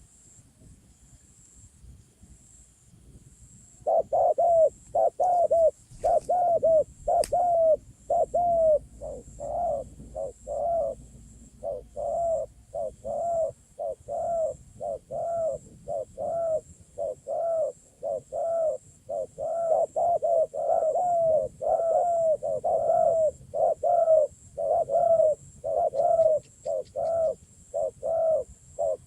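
Bird-luring call: a long series of short cooing notes, about two a second, starting about four seconds in.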